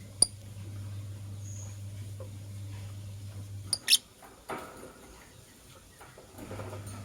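Lovebirds in a cage making small clicks and taps: one sharp click just after the start, a brief high squeak about four seconds in, then soft scratching. Under it runs a low steady hum that stops for about two seconds midway.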